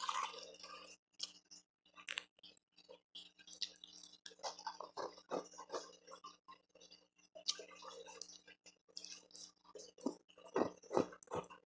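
Close-miked chewing of refrozen ice: irregular crisp crunches and clicks, the loudest bites coming a little before the end.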